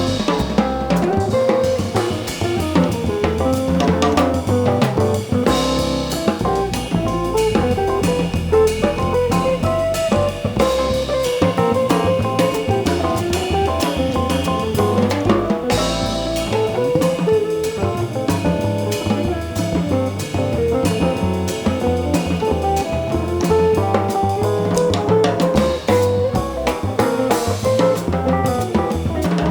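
Live jazz band playing, with drum kit and electric guitar prominent over bass and keyboard.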